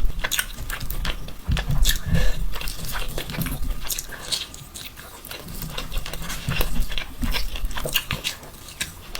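A person chewing and biting mouthfuls of mutton mandi close to the microphone, with many short, quick wet clicks and smacks.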